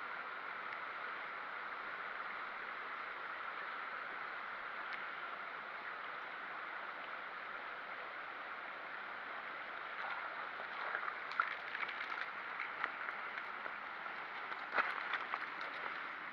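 Steady rush of flowing stream water. In the second half come scattered small clicks and ticks of handling.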